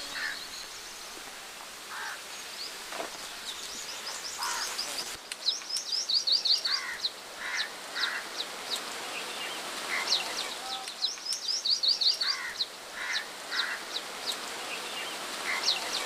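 Birds chirping: runs of quick, high, short notes repeated every second or two, with some lower calls between, over a steady faint outdoor hiss.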